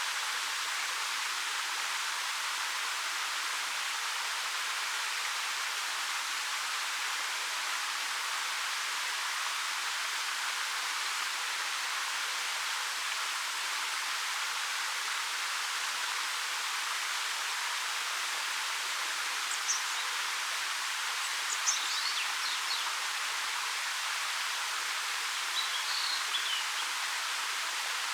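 Ariake Falls, a 13 m waterfall over black rock, rushing in a steady, even hiss with no low rumble. Small birds give a few brief high chirps in the last third.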